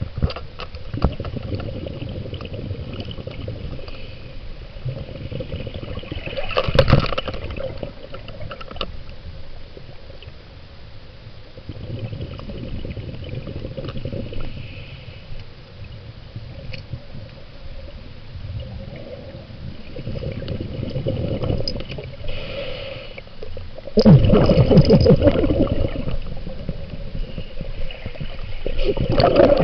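Water gurgling and sloshing in irregular surges, the loudest a few seconds before the end.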